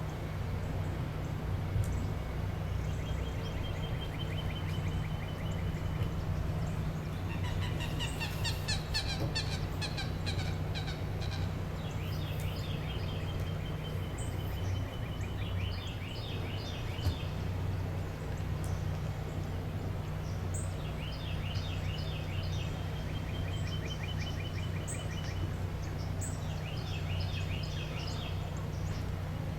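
Wild birds calling in rapid chattering trills, repeated every few seconds, over a steady low background rumble.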